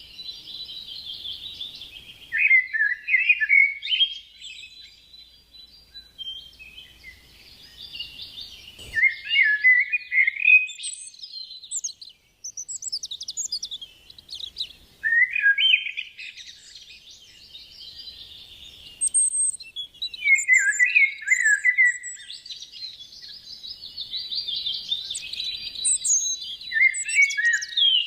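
Small birds chirping and twittering: a steady high chatter broken every few seconds by louder flurries of chirps.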